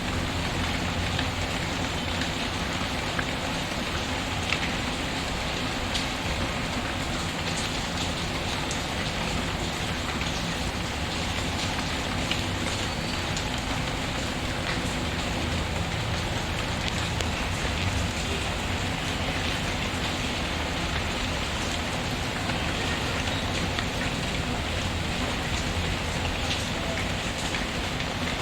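Steady rain falling on a surface, mixed with scattered small crackles and pops of a wood fire burning in a fireplace.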